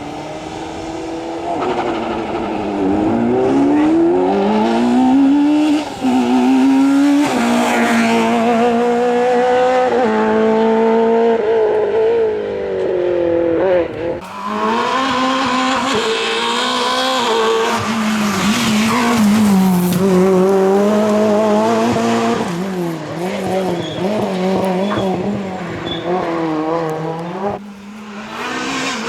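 Rally car engines driven hard, their pitch climbing under acceleration and dropping sharply at gear changes and lifts, over and over.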